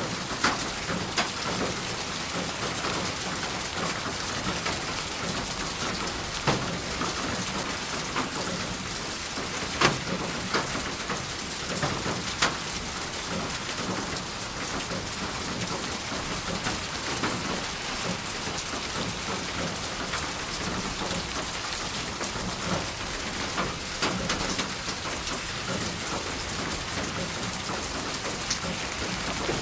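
Steady rain falling on a hard surface, an even hiss with scattered louder individual drop hits, the sharpest about ten and twelve seconds in.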